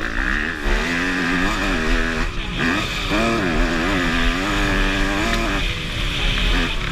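Motocross bike engine revving up and falling back again and again as the throttle is worked on the track, over heavy low wind rumble on the microphone.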